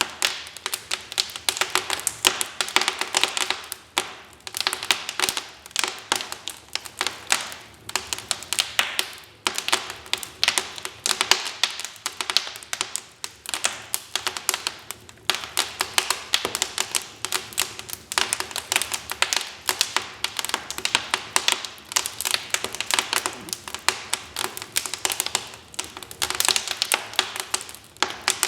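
Wood fire crackling in a fireplace: dense, irregular snaps and pops of burning logs, many each second, over a soft hiss.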